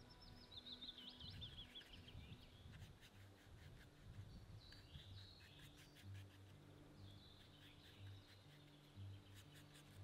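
Faint songbird song: a high trill that falls in pitch over about two seconds near the start, then shorter high phrases around the middle and again a couple of seconds later. Soft, low sustained background music notes sound underneath.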